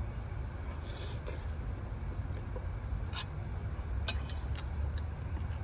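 Steady low vehicle rumble with scattered small clicks and taps, the sharpest about three and four seconds in.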